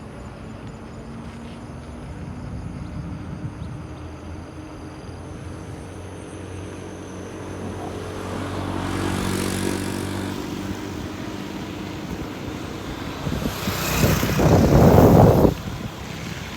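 A motor vehicle's engine hum that swells as it passes, loudest about nine to ten seconds in, followed near the end by a loud rush of wind buffeting the microphone.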